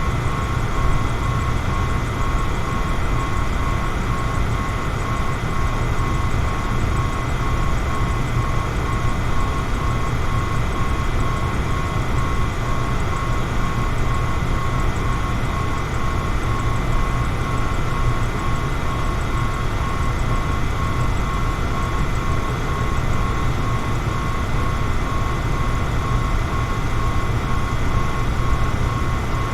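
Electric fan running steadily: an even rush of air over a low motor hum, with a faint steady whine above it.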